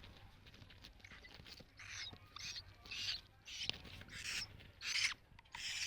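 Week-old hill myna nestling giving raspy, hissing begging calls, short calls about twice a second starting about two seconds in and getting louder.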